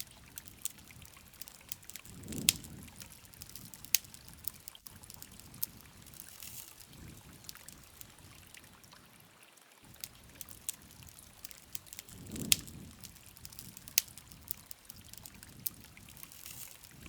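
Wood campfire crackling, with irregular sharp pops over a soft rushing of flames. A louder pop with a low whoosh comes twice, about ten seconds apart.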